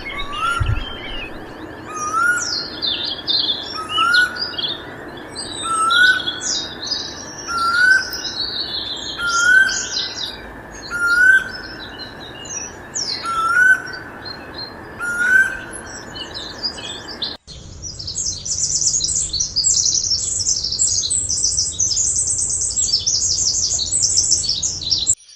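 Small birds chirping and twittering, with a short rising call repeated about every second and a half. After a sudden cut, a dense, rapid twittering takes over.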